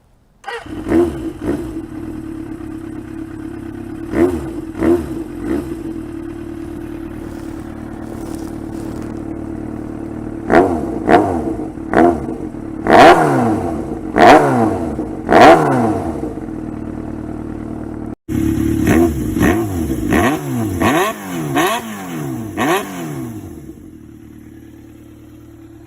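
Suzuki GSX400 Impulse four-cylinder engine with an aftermarket exhaust idling and being blipped over and over, each short rev rising and dropping back to idle. It is two clips joined together with a cut about 18 seconds in; the loudest string of revs comes in the middle of the first clip, and the engine settles to a quieter idle near the end.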